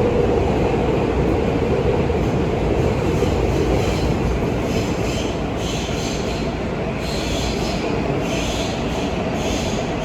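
New York City subway J train running, heard from inside the car: a steady rumble of wheels on the track. From about halfway through come repeated short, high-pitched squeals from the wheels.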